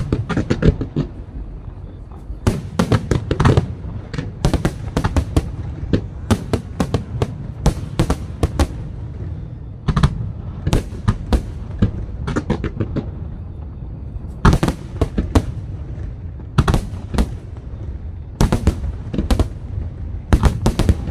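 Aerial fireworks display: shells bursting overhead in rapid, irregular bangs, often several in quick succession, over a continuous low rumble.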